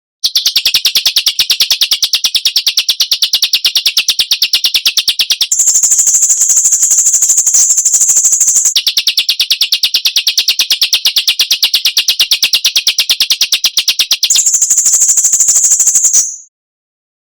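Harsh, rapid rattling bird call of the 'besetan' kind used in bird-training (masteran) recordings, repeated without a break. Its pitch jumps higher about five seconds in, drops back about three seconds later, and jumps higher again near the end before cutting off abruptly.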